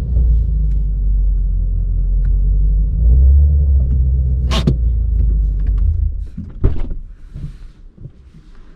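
Shelby Mustang GT350R's 5.2-litre flat-plane-crank V8 idling with a deep, steady rumble, then switched off about six seconds in. There is a sharp click a little before it stops and a knock just after.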